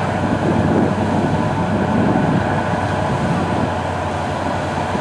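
Boat engine held at full throttle with the propeller churning water and mud, a steady heavy drone: the boat is stuck aground and is dredging itself free with its propeller.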